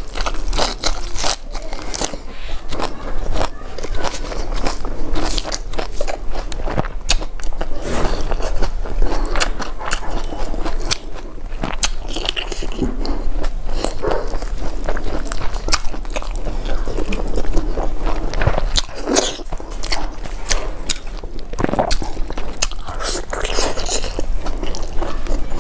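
Close-miked mukbang eating: fried chicken pieces and fresh greens bitten and chewed, with many sharp crisp crunches and wet mouth clicks following one another.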